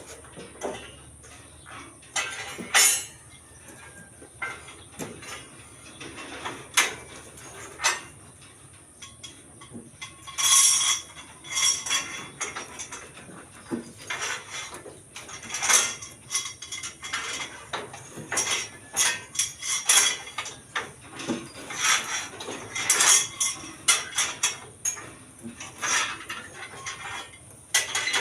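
Steel reinforcing bar being worked by hand into column stirrups: irregular metallic clinks and clanks with a short ring, coming more often in the second half.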